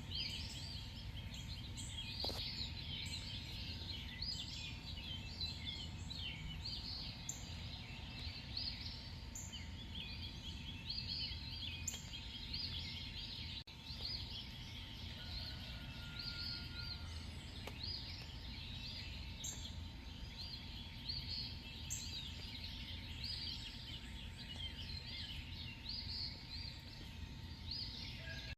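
Night-time chorus of many small animals chirping in dense, rapid trills, over a low background rumble.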